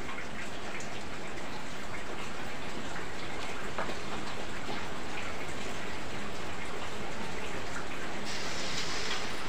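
Heavy rain falling, a steady hiss throughout. About eight seconds in, a sharper sizzle joins it as battered banana goes into hot frying oil.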